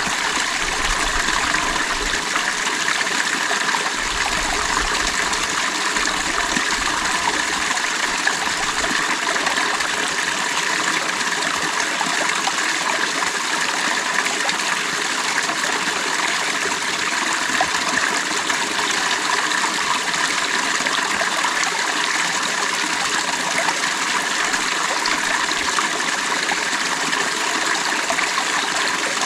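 A creek flowing steadily, water running and trickling over stones in a continuous, even rush.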